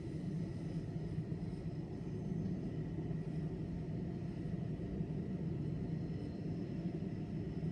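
Steady low rumble of railway-station ambience, with a faint high steady whine over it.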